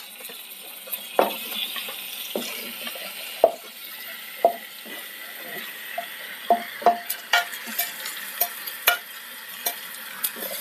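Marinated fish pieces going into hot coconut oil in a clay pot: a steady sizzle, with irregular clicks and knocks of a spoon scraping them off the dish, more frequent in the second half.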